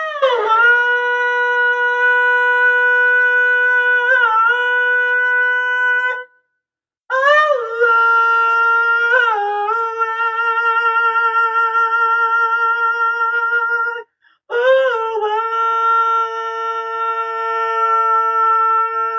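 A singer holding long, high wordless notes: three sustained tones, each opening with a slide down in pitch and held steadily, with a brief full stop between them.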